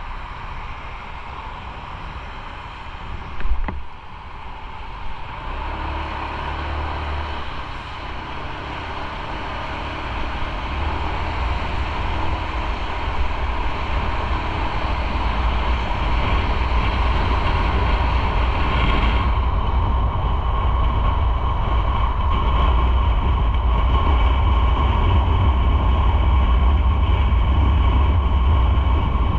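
Motorcycle riding: engine and wind noise on the microphone, growing steadily louder as the bike picks up speed, with a short knock about three and a half seconds in.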